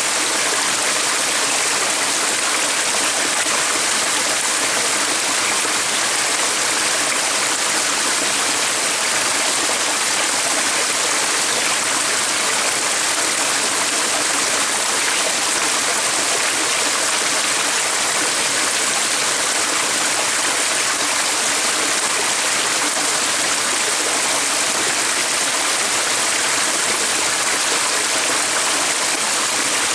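Flowing water rushing steadily, with no pause or change.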